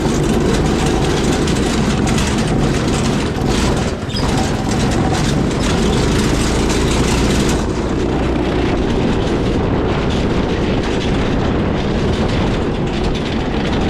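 Predator 212cc single-cylinder four-stroke engine running loud and steady, with a brief dip about four seconds in and a duller sound from about halfway through.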